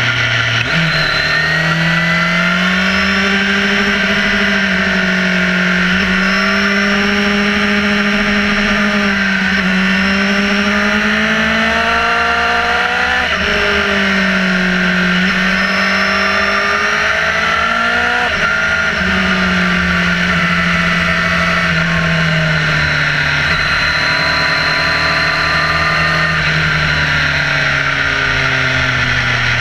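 Motorcycle engine under way, its pitch rising and falling through the bends, with sudden jumps in pitch at gear changes about a second in and again around halfway. A steady rushing noise runs along with it.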